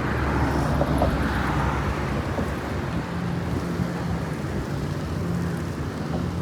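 Engine running steadily with a low hum, under a rush of wind noise.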